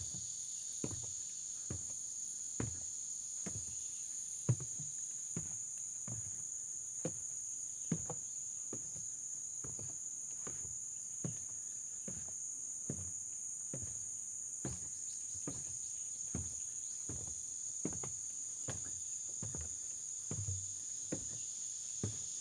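Footsteps walking at an even pace on a hill trail, a little more than one step a second, over a steady high-pitched insect chorus.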